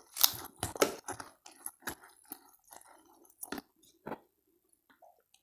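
Cooking oil being poured from a plastic bottle into chopped seasoning: a run of irregular crackling clicks and glugs that thins out after about four seconds.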